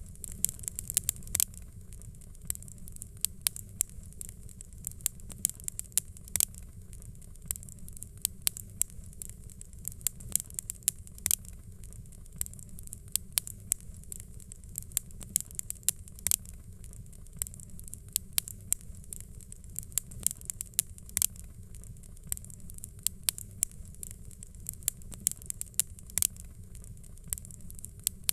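Fireplace fire crackling: irregular sharp pops and snaps, several a second, over a low steady rumble and a soft hiss.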